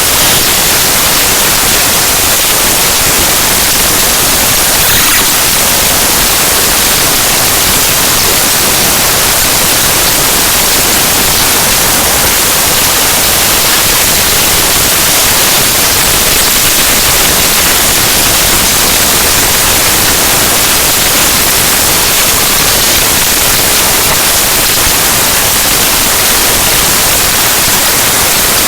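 Loud, steady static hiss, heaviest in the treble: the binary data of the Windows kernel file ntoskrnl.exe played back as raw audio.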